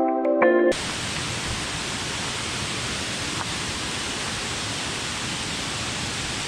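Waterfall's rushing water: a steady, even rush. Ambient music cuts off suddenly under a second in.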